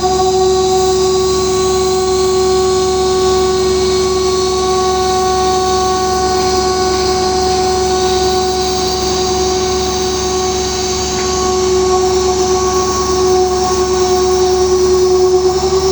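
A machine running steadily, giving a constant whine with overtones over a hissing, rumbling noise.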